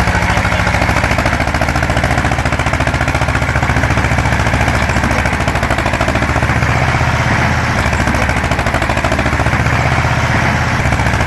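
Ursus C330 tractor's two-cylinder diesel engine running steadily with a fast, even knocking beat.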